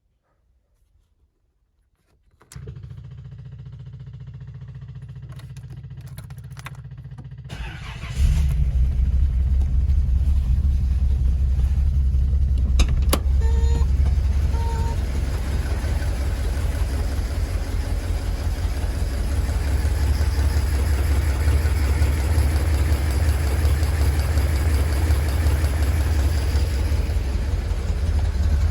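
Modified 1977 Datsun 280Z engine on a cold start: a low steady hum comes on a couple of seconds in, then about eight seconds in the engine catches with a sudden jump in loudness and settles into a steady, loud idle.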